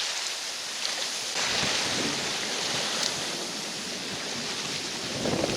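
Wind blowing over the microphone and choppy, storm-roughened lake water washing against the bank: a steady rushing noise.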